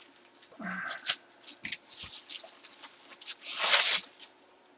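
Packaging being handled and torn open, a run of short rustles and scrapes with a longer, louder tearing sound about three and a half seconds in.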